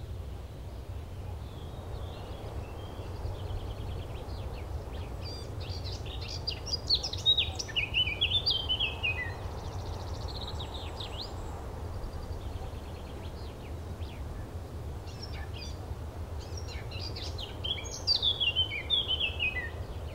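Outdoor ambience: small birds chirping in short spells, about six seconds in and again near the end, over a steady low background rumble.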